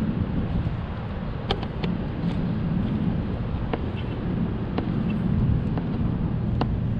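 Outboard boat motor running steadily with a low rumble, freshly fitted with a new fuel line, with a few light clicks over it.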